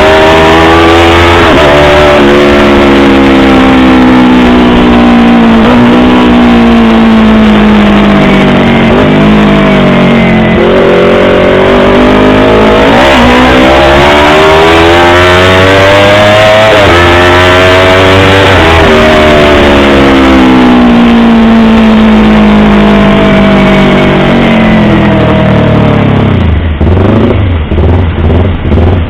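Yamaha YZF-R25's parallel-twin engine and exhaust, loud, its pitch climbing and falling again several times as it is revved up and eased off. Near the end it drops to a lumpy, pulsing idle.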